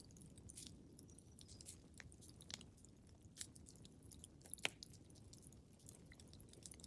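Wood fire crackling in a fireplace: scattered small pops and snaps over a low, steady rumble, with one sharper pop about four and a half seconds in.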